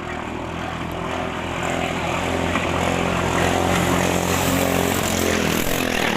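Small single-cylinder petrol engine of a ketinting longtail racing boat running at high speed, growing steadily louder as the boat approaches.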